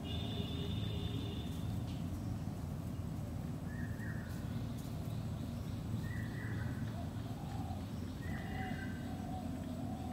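A steady low rumble with short, high animal calls repeating every second or two from about four seconds in.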